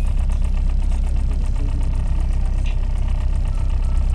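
Tourist boat's inboard engine running steadily, a low rumble with a rapid, even ticking beat, heard from on board.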